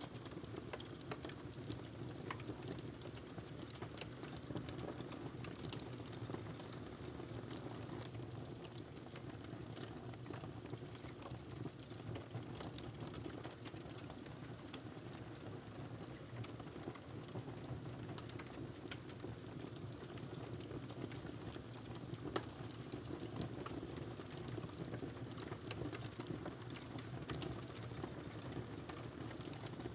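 Wood fire crackling in a fireplace: a steady low rumble of burning with many small, irregular pops and crackles, and one louder pop about two-thirds of the way through.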